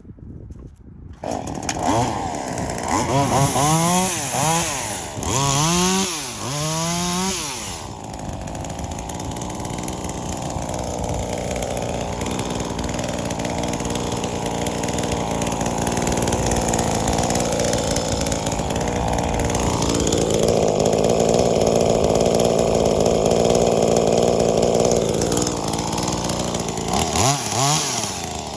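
V-Modest 2511T, a clone of the Echo 2511T top-handle two-stroke chainsaw, revved up in several quick blips about a second in, then running steadily under load for about twenty seconds as it cuts through black locust hardwood. It revs freely again near the end. The carburetor is set rich.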